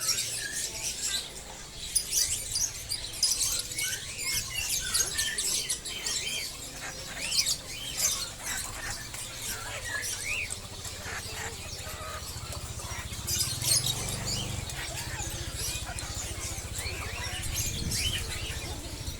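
Many small caged birds chirping and twittering at once in short, high calls, over a low steady hum.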